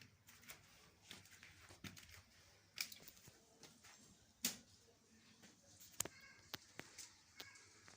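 Faint, irregular tapping of scattered raindrops, a few sharp ticks a second over a quiet hiss, with two louder taps near the middle.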